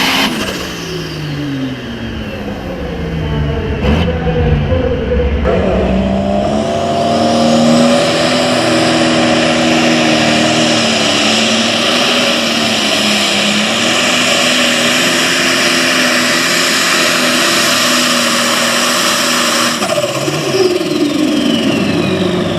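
Super Farm class pulling tractor's diesel engine running at full power under load down the pull track, its pitch dropping at first, jumping back up about five seconds in and holding high, then falling away near the end as the run ends.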